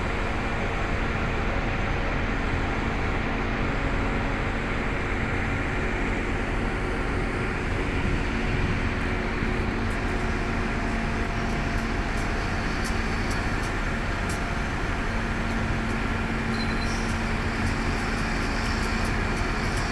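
Heavy construction machinery's engine running steadily, with a run of light clicks or ticks over the second half.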